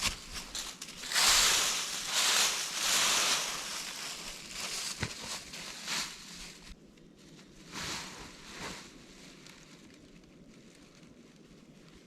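Rustling and crunching noises, densest for the first few seconds, then a few separate crunches that fade out.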